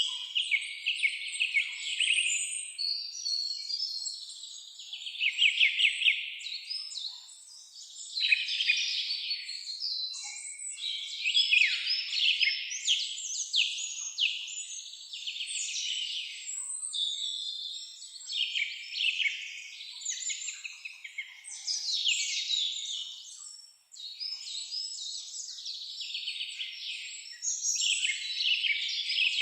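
Several songbirds singing and calling at once: rapid trills, chirps and quick sweeping notes overlapping almost without a break. There is a brief gap about 24 seconds in.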